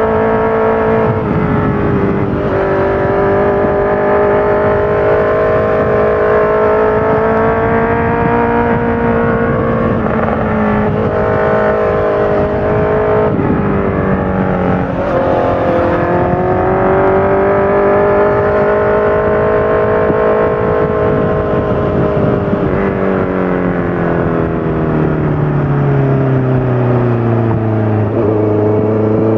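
Honda CBR650F inline-four motorcycle engine running through a full Akrapovic exhaust with the dB killer fitted, pulling through the gears: the pitch climbs and drops abruptly at each shift several times, holds fairly steady for a while, then falls away as the bike slows near the end.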